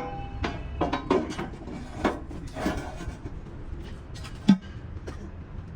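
Irregular metallic knocks and clinks of tools on metal, some ringing briefly, over a steady low hum. The loudest knock comes about four and a half seconds in.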